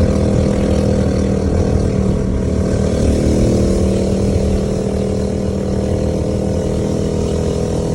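Stock single-cylinder engine of a Coleman BT200X mini bike running steadily at a fairly constant speed, in its last moments before the connecting rod lets go.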